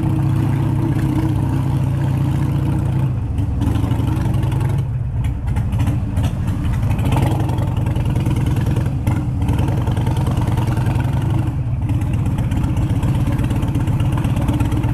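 Harley-Davidson V-twin engine running as the motorcycle rides along, its note dipping briefly a few times.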